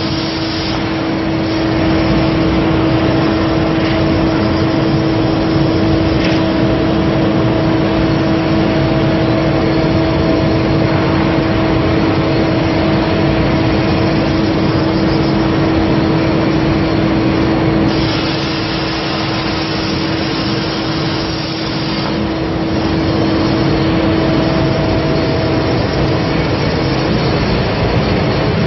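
CNC plate-cutting machine's torch cutting steel: a loud, steady hiss over a constant humming tone. The hiss turns brighter for a few seconds a little past the middle, then settles again.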